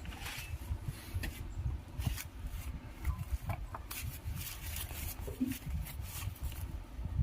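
Handling noise from working on a starter motor: scattered light clicks and taps with some rubbing, over a low steady rumble.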